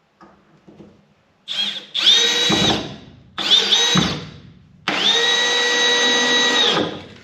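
Milwaukee M12 cordless hammer drill/driver driving screws into wooden boards, its motor whining in three runs. The first two are short and the last is longest, at about two seconds.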